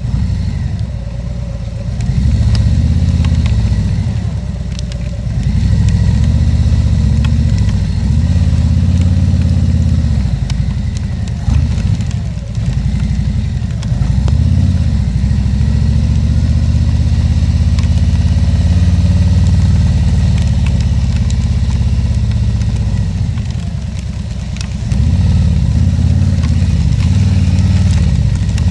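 2020 Harley-Davidson Tri Glide Ultra trike's Milwaukee-Eight 114 V-twin engine pulling away and running on the road, its low note swelling and dropping back several times as it accelerates and shifts, with a steady lull about two-thirds of the way through before it picks up again.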